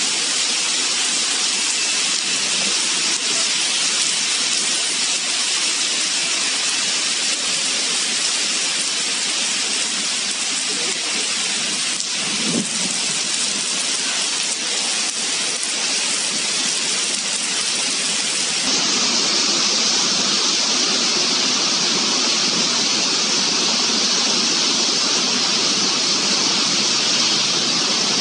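Heavy rain falling steadily, a dense even hiss. About two-thirds of the way in it abruptly becomes slightly louder and brighter.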